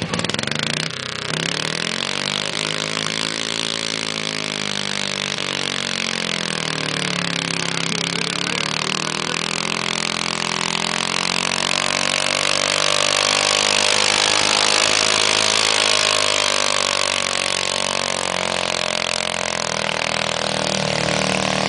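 Alcohol-burning 12 hp Kohler engine of a Ford LGT 100 garden tractor running hard under load during a full tractor pull. The engine note climbs in pitch in the first few seconds, sags about eight seconds in, then rises again and holds high and loud.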